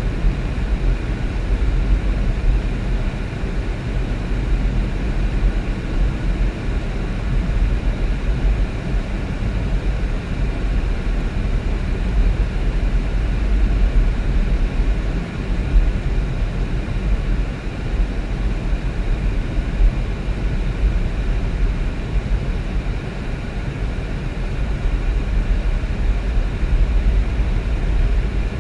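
Steady low rumble of a vehicle driving, road and engine noise heard from inside the cabin.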